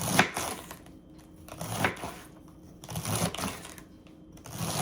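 Small knife cutting romaine lettuce finely on a cutting board: four bursts of quick cuts, each made of rapid clicks, about a second and a half apart.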